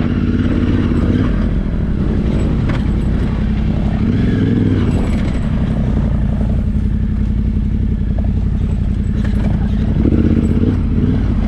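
Yamaha Ténéré 700's parallel-twin engine running under way over a rough off-road track, its pitch rising and falling as the throttle is worked, with two swells at about four and ten seconds in.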